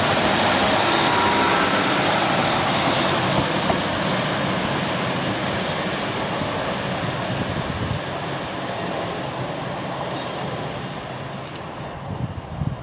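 A passenger train's wheel and rail noise and rumble, loud at first and fading steadily as the train draws away along the line.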